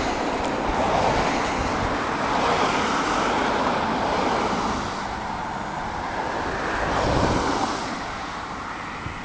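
Wind rushing over the microphone, a steady noisy haze that swells and eases a few times with no clear engine note.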